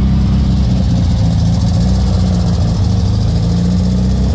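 Engine of a sightseeing tour train running steadily with a low, even hum.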